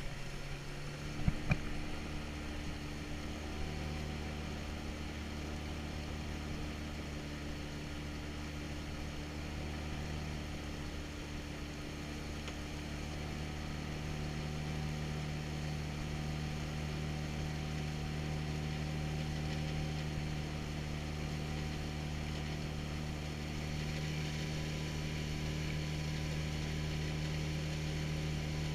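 A boat's motor running at a steady drone while under way, with a couple of sharp knocks about a second in.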